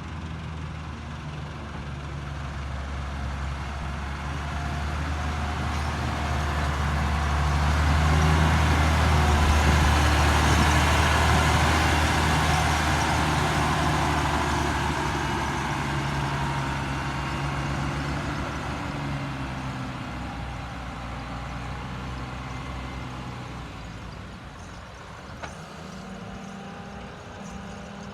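Nissan Diesel tipper truck's diesel engine running at a fairly even pitch. It grows louder to a peak about ten seconds in, then fades away.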